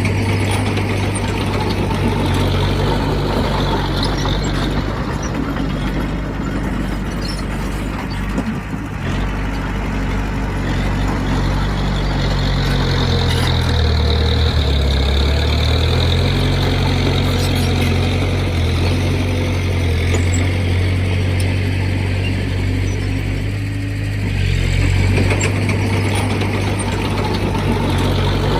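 Heavy diesel engine of earthmoving machinery running under changing load. Its low note drops and rises again about halfway through.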